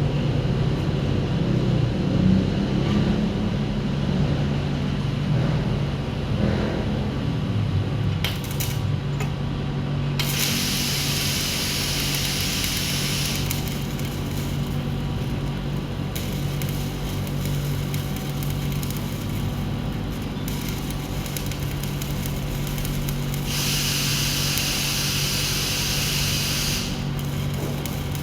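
Stick-welding arc hissing and crackling in two spells of a few seconds each, over a steady low machine hum.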